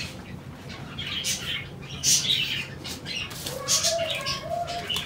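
Small birds chirping, short high chirps coming roughly once a second over a low steady hum.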